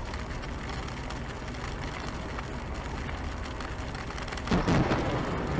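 Steady hiss, then a loud, sudden crack of close thunder from a lightning strike about four and a half seconds in, rumbling on.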